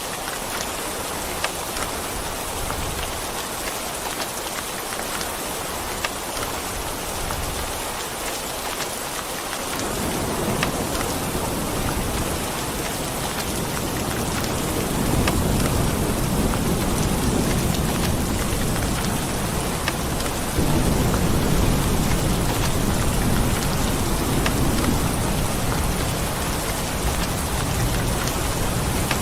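Steady rain falling, with a low rolling rumble of thunder that comes in about a third of the way through and grows louder about halfway through.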